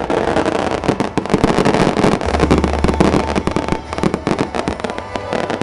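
Fireworks going off in a dense, rapid string of crackles and pops. A low steady hum joins about two seconds in.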